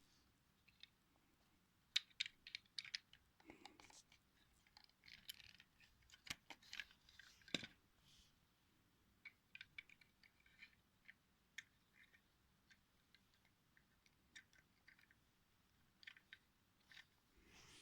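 Faint, irregular small clicks and ticks, some in quick clusters, with short stretches of near silence between them.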